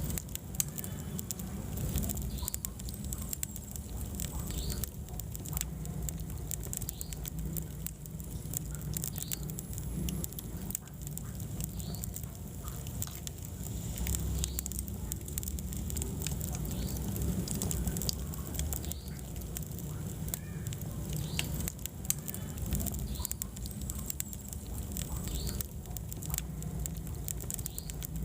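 Wood fire burning in a fireplace: a constant low rumble of flames with frequent small, irregular crackles and pops.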